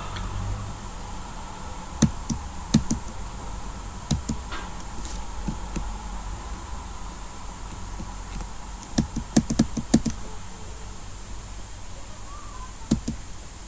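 Scattered sharp clicks at a computer, with a quick run of them about nine to ten seconds in, over a steady low background hum.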